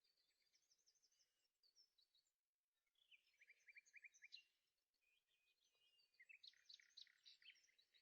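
Faint birds chirping, in several clusters of quick high trills and chirps.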